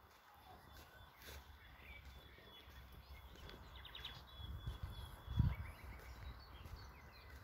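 Small birds chirping and singing, with short high calls and a quick run of chirps midway, over a low rumbling noise on the microphone that swells and peaks about five seconds in.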